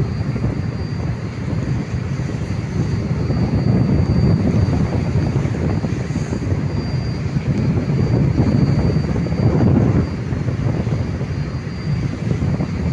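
Tugboat's diesel engine running with a heavy, steady low rumble that swells and eases, with a faint thin high whine above it.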